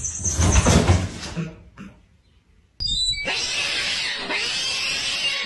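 A cat making harsh, noisy, hiss-like sounds. One loud burst comes in the first second and a half, then there is a brief quiet gap. A longer, steady hissing sound starts abruptly about three seconds in.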